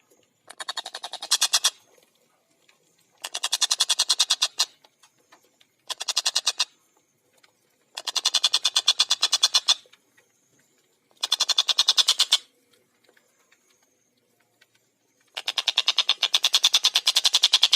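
Stork-billed kingfisher (tengkek buto) giving loud cackling call bouts: rapid runs of sharp notes at about a dozen a second, six bouts with short pauses between them, the last one the longest.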